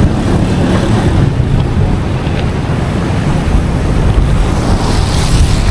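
Wind buffeting the action camera's microphone: a loud, steady rumble with a rushing hiss.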